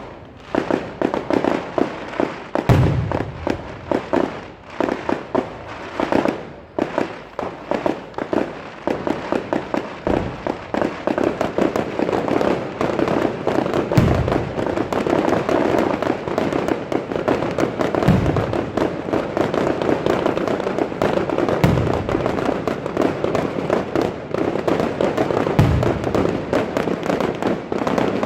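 Fireworks display at close range: a dense, continuous crackle of bursting shells that thickens after about eight seconds, with several deep booms a few seconds apart.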